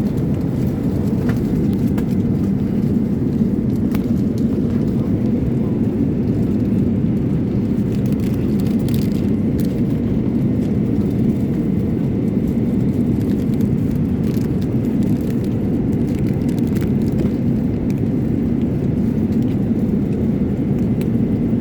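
Steady cabin noise of a Boeing 787 airliner in flight, the engines and airflow heard from inside the cabin as an even low rush, with a few faint clicks.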